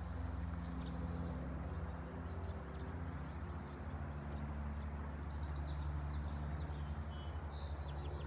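Small birds chirping and twittering, with a quick run of high notes about halfway through, over a steady low hum.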